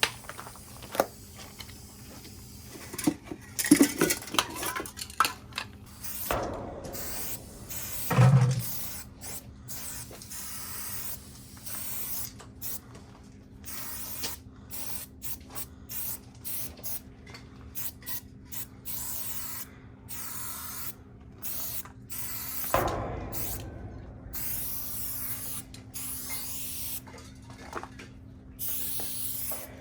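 Aerosol spray paint cans hissing in many short bursts and a few longer passes. A few knocks and clatters come in the first ten seconds, the loudest about eight seconds in.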